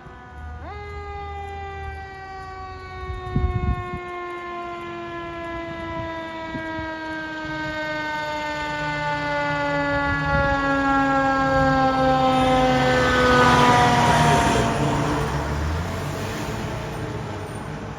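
Fire truck's mechanical siren spun up sharply, then winding slowly down in pitch as the apparatus drives past, its engine and road noise swelling and then fading. A brief loud low thud sounds a few seconds in.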